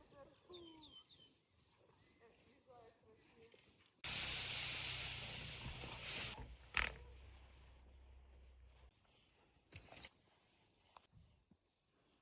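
Insects chirping in a steady, rapidly pulsed high trill. About four seconds in, a sudden loud rush of noise with a low hum cuts in and fades over the next few seconds, with a sharp knock near the middle.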